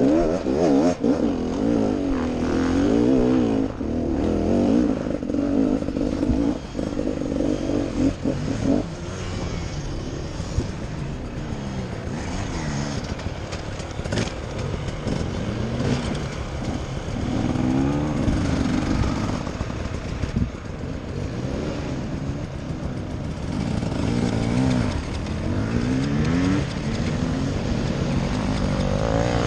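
Enduro dirt bike engine revving up and down over and over as the throttle is worked, louder over the first several seconds and then a little quieter.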